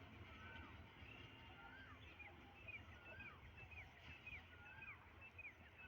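Faint bird calls: many short chirps, each gliding up and then down in pitch, repeating over a faint low rumble.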